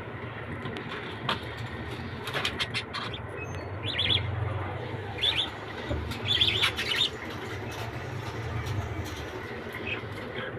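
Pet birds chirping in a few short bursts, mostly between about four and seven seconds in, with wings fluttering and rustling.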